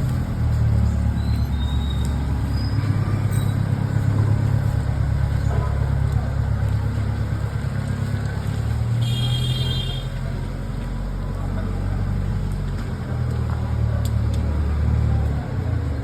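Car engine running while the car reverses at low speed: a steady low rumble that eases off midway and picks up again, with a brief high-pitched tone about nine seconds in.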